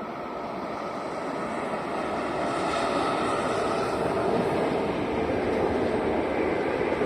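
A train approaching and passing, its running noise growing louder over the first few seconds and then holding steady.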